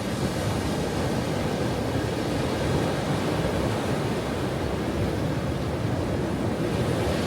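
Ocean surf washing continuously, a steady even rush with no single wave standing out.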